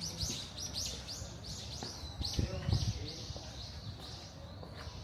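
A bird chirping in a rapid, even series of short high chirps, about three to four a second, fading out toward the end. A low thump about two and a half seconds in.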